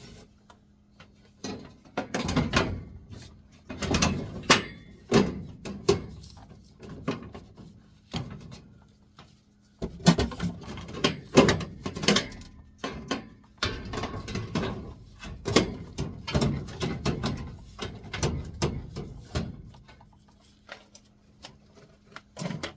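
Irregular knocks, clicks and scrapes of metal furnace parts and tools being handled as the furnace is put back together, in clusters with short pauses. A faint steady hum runs underneath.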